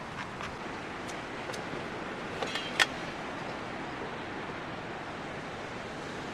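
Strong wind blowing steadily, a continuous rushing noise, with a few sharp clicks and ticks in the first three seconds, the loudest just before three seconds in.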